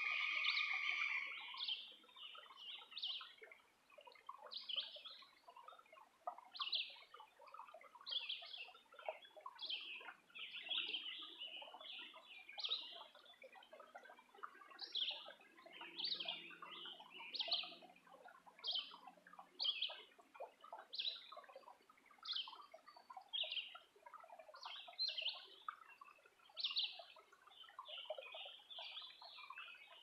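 Woodland birdsong: a bird repeats a short high note every second or so over many fainter calls. It opens with a louder held call that stops about a second and a half in.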